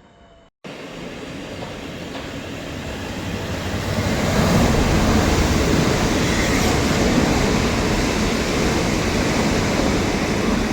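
Train running past close by, its noise building over the first few seconds and then holding steady and loud.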